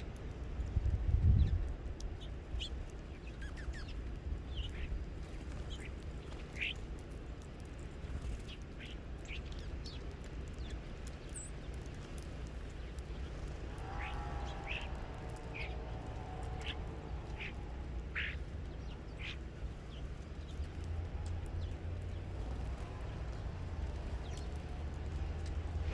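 Birds at a feeder calling: many short high chirps scattered throughout, with a lower, nasal, quack-like call held for a few seconds about halfway. A steady low rumble runs under it, and a low thump about a second in is the loudest moment.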